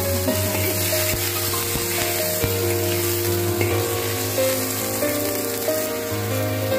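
Asparagus and garlic sizzling in hot oil in a wok, with a spatula stirring and scraping through the spears.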